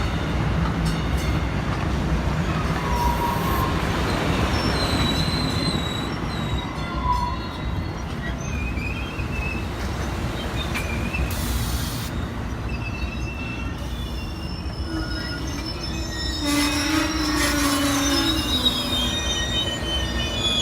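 A train rolling past with a steady low rumble, its wheels squealing in thin high tones that come and go, more of them in the last few seconds.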